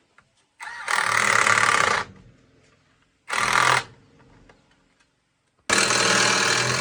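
Pneumatic impact wrench hammering in three bursts, the first and last about a second long and a short one between, as wheel nuts are run on or off.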